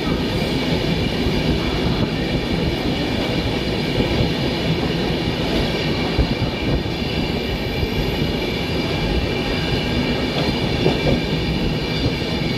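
Passenger train coaches running past at speed: a steady rumble of wheels on rail with a faint high whine, no let-up.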